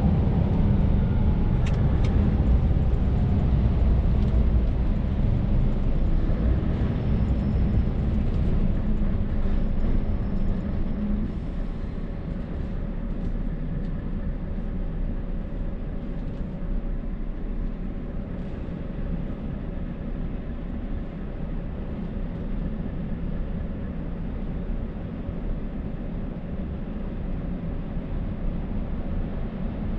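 Scania R580 V8 truck engine running under way with tyre and road noise, heard from inside the cab. It gets quieter about eleven seconds in, as if the throttle is eased off.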